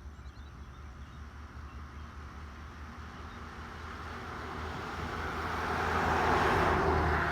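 A car passing along a country road: its tyre and engine noise swells gradually over several seconds, is loudest near the end, then begins to fade.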